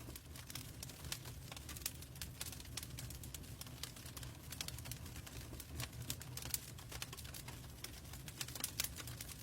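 Wood logs burning in a fireplace, crackling with many irregular small pops and snaps over a low steady rumble of the flames.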